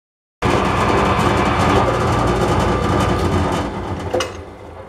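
Metal lathe running steadily with a low motor hum and noisy machining sound, cutting in abruptly. About three and a half seconds in it is switched off and winds down, with a click just after.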